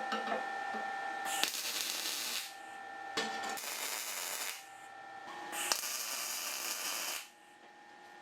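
Power tool motor running with a steady whine, broken three times by long bursts of rushing, grinding hiss, each opening with a sharp click, as the tool works against metal.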